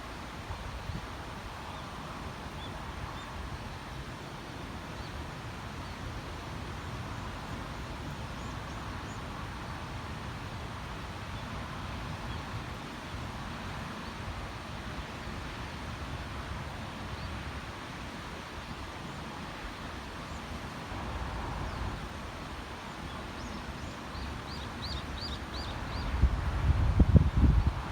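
Outdoor wind rumbling on the microphone, with a bird chirping a quick run of about five short notes shortly before the end. Heavier gusts buffet the microphone near the end.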